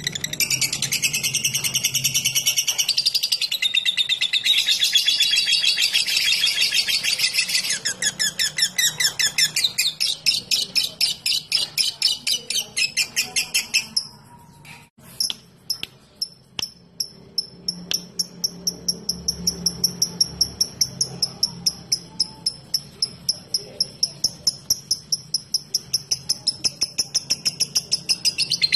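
Lovebird singing its long, rapid chattering 'ngekek' song, a dense stream of shrill chirps. It breaks off briefly about halfway, then resumes as a fast, even run of sharp chirps, several a second.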